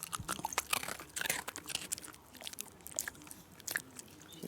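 Shiba Inu crunching and chewing a hard treat: a quick run of crisp crunches that thins out towards the end.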